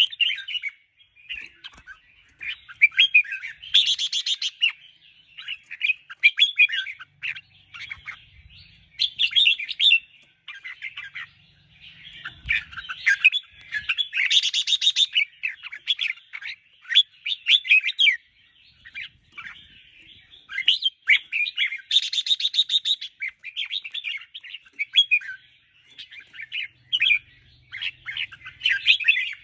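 Red-whiskered bulbul singing: a run of short, chirpy warbled phrases repeated over and over, with a few harsher, buzzier notes about four, fifteen and twenty-two seconds in.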